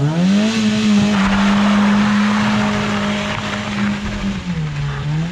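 Car engine revving up and held at steady high revs for about four seconds, then easing off near the end. A rushing hiss runs over the engine note through the middle of the run.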